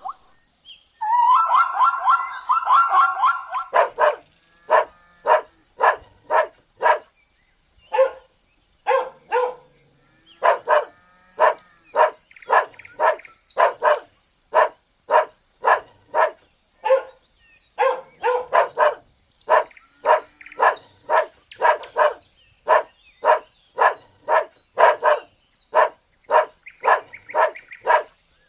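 Dog barking over and over in short, sharp barks, about two a second, after a brief longer pitched call in the first few seconds.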